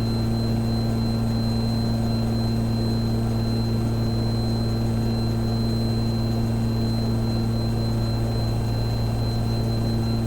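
Cockpit drone of a Twin Cessna 414A's two turbocharged piston engines and propellers in flight: a steady low hum with a few even tones, unchanging throughout, plus a thin high steady whine.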